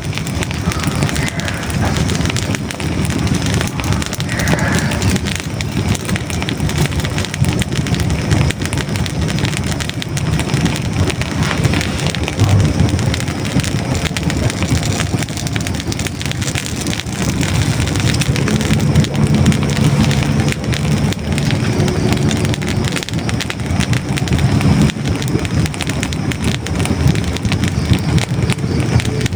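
Hardwood logs burning in a fireplace: a steady low rush of flame with a dense, continuous crackle of small sharp pops throughout.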